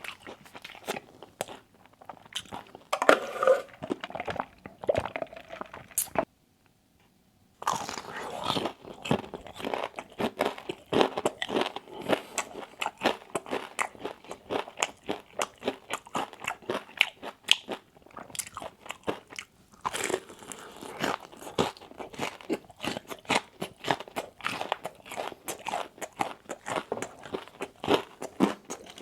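Wingstop food being bitten and chewed: steady irregular crunching and wet chewing, broken by a sudden silence of about a second roughly six seconds in.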